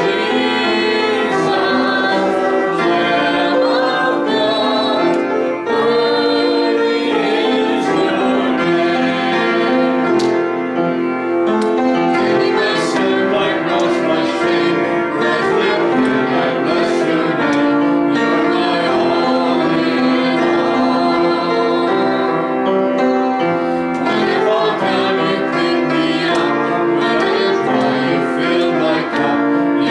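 Congregational worship song: singing voices over instrumental accompaniment, continuous and steady in level.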